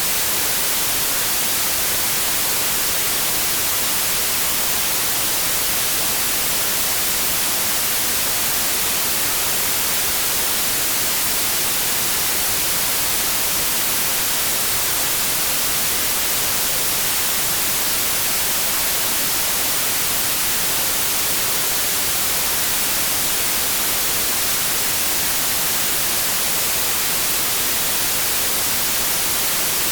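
Steady white noise: an even, unchanging static hiss with no breaks or other sounds.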